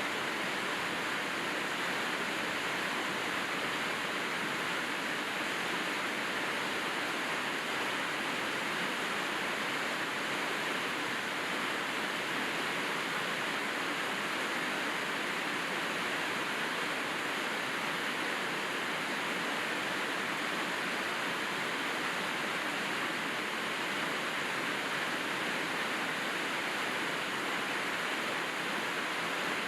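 Steady rainfall, an even hiss that holds at one level throughout with no separate drops standing out.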